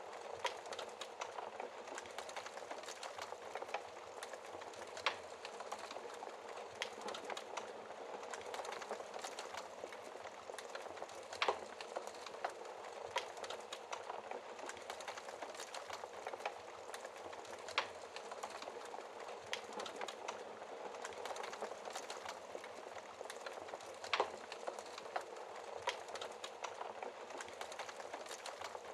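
Wood fire crackling in a fireplace: a steady soft hiss and fizz from the burning logs, broken every few seconds by sharp pops and snaps, the loudest about 11 s and 24 s in.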